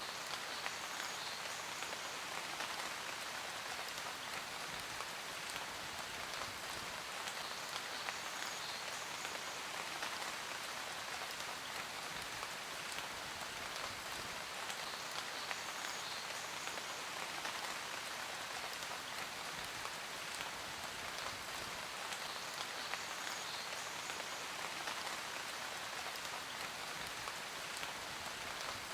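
Steady rain falling, an even hiss of many drops on a surface with fine close patters.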